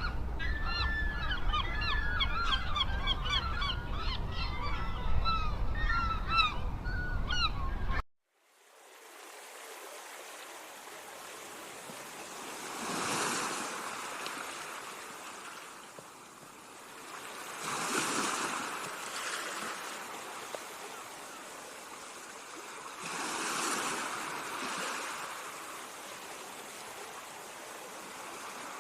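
A flock of birds calling, many short chirping and honking calls over a low rumble, which cut off abruptly about eight seconds in. Then ocean waves wash in, swelling and fading about every five seconds.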